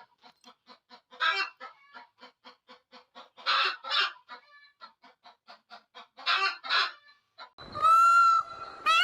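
Domestic hen clucking in a steady run of short clucks, about four or five a second, broken three times by louder squawking calls. Near the end a loud pitched sound with repeating swoops in pitch starts.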